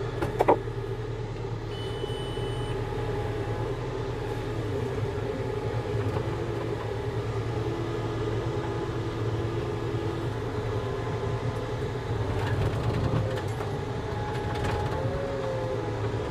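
Volvo tracked skid steer's diesel engine running steadily as the machine drives over fresh fill to pack it down, with thin whining tones that slide up and down in pitch. A couple of sharp clanks come about half a second in.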